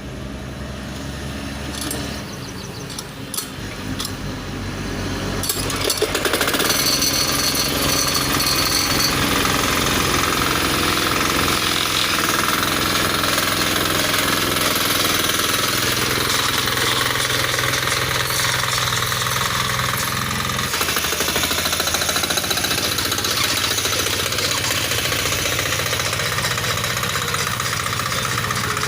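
Power weeder (mini tiller) engine running with a rapid knocking beat, growing louder over the first five or six seconds and then running steadily, its speed shifting slightly a couple of times.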